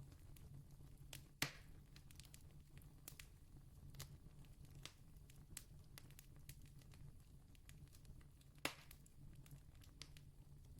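Distant campfire crackling faintly: scattered small snaps and pops, with two louder pops about a second and a half in and again later on, over a low steady rumble.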